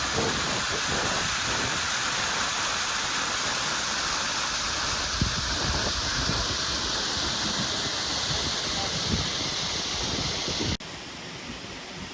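Waterfall rushing steadily. Near the end it cuts off abruptly and a quieter rushing continues.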